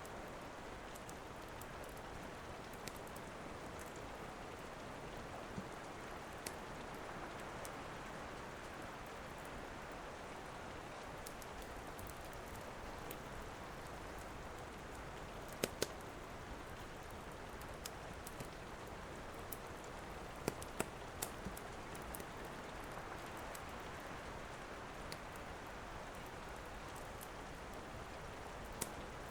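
Steady rain hiss with the sharp, scattered crackles and pops of a wood fire in a fireplace; a few louder pops come about halfway and two-thirds of the way through.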